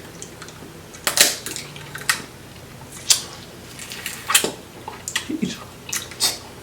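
Cooked shellfish shells being cracked and broken apart by hand: about six sharp, crisp cracks, roughly one a second.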